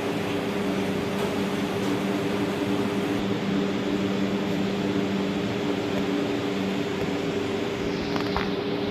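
Steady mechanical hum: a few low tones over an even hiss, with a faint click near the end.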